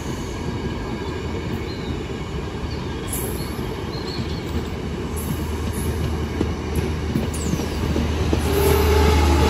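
New Indian-built passenger coaches rolling past on the rails: a steady rumble of wheels on track with a few brief high wheel squeals. A low steady drone comes in about halfway through and grows louder near the end.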